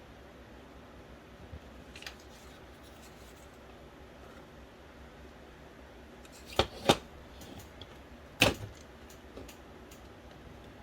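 Sharp clicks and taps of small parts being handled while an original Xbox's Philips DVD drive is taken apart. A couple of faint ticks come about two seconds in, two loud clicks in quick succession just past the middle, another a moment later, then scattered light ticks, over a steady low hiss.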